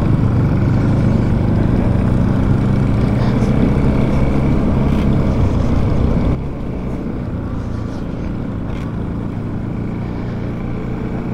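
Motorcycle engine running steadily while riding, with wind and road noise. About six seconds in the sound drops and becomes quieter.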